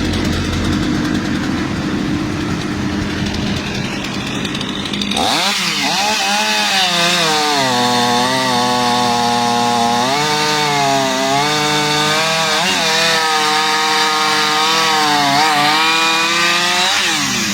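A low, steady engine sound, then about five seconds in a chainsaw revs up sharply and cuts. Its pitch dips and recovers again and again as it loads in the wood, and it falls away near the end.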